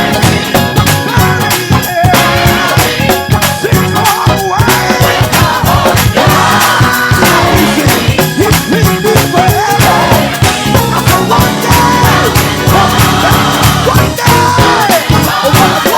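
Gospel band playing an upbeat churchy tune: drums keeping a steady beat under bass, organ and keys, with backing-track horns and guitar.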